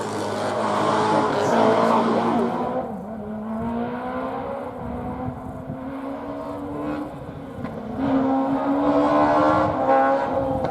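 Historic rally car's engine held at high revs under load, its pitch climbing steadily. It turns duller and quieter about three seconds in and comes back louder near the end.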